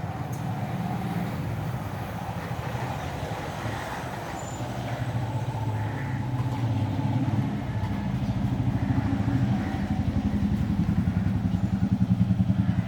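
A motor vehicle engine running with a fast low pulsing, growing louder toward the end as it comes closer.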